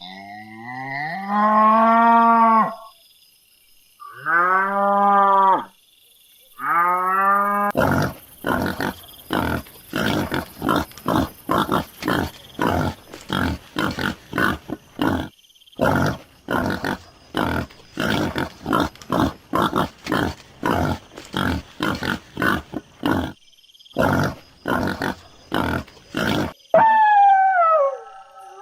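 Cattle mooing, four long arching calls. They are followed by a long run of short rough animal grunts, about two a second. Near the end a dog begins to howl and whine, its pitch sliding up and down.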